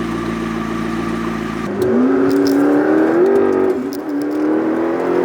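Car engine running steadily, then accelerating hard about two seconds in: the pitch climbs, drops once at a gear change and climbs again.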